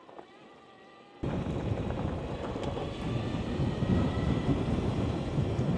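Wind rushing and buffeting over the microphone while riding an electric motorcycle, cutting in abruptly about a second in after near quiet and then holding steady.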